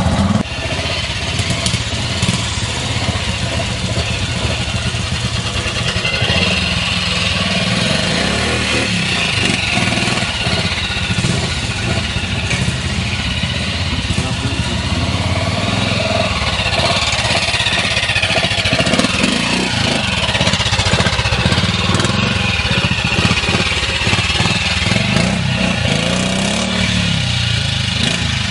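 Classic trials motorcycle engine running at low to moderate revs, the revs rising and falling as the throttle is worked.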